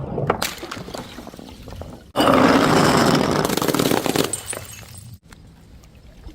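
Something being crushed or broken: scattered crackles, then about two seconds in a sudden loud crunching that lasts about two seconds and fades.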